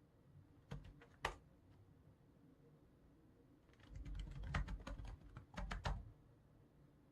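Typing on a computer keyboard: a few separate keystrokes about a second in, then a quick burst of typing lasting about two seconds with a brief pause in the middle.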